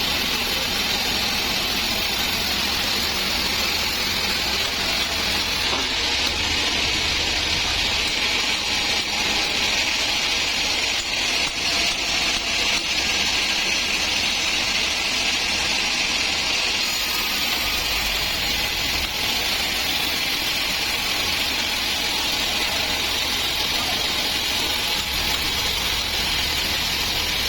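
Band sawmill running, its blade sawing through a dry acacia log: a steady hiss of blade in wood over a low machine hum.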